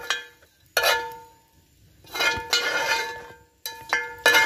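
A metal utensil clanking and scraping against cast-iron cookware as sausage is transferred into a Dutch oven. There is a sharp clank about a second in, a longer clatter around the middle and two more clanks near the end, each leaving a ringing tone.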